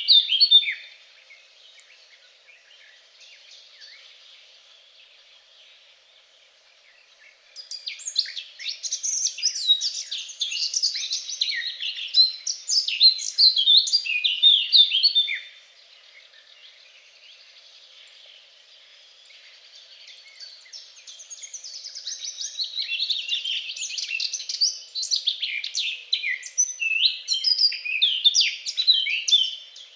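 A songbird singing long, rapid, twittering phrases, each lasting several seconds, with quieter pauses between them; the song returns and grows louder towards the end.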